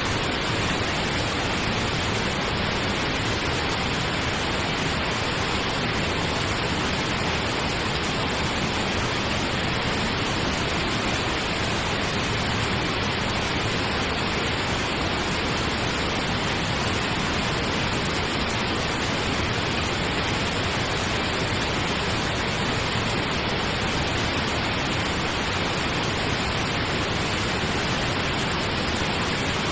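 Steady pink noise: an even, unchanging hiss with a rushing quality, like a waterfall, and no breaks or changes.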